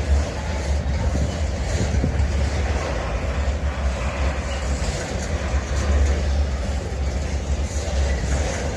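A train at a railway station, giving a steady low rumble with a running noisy hiss above it.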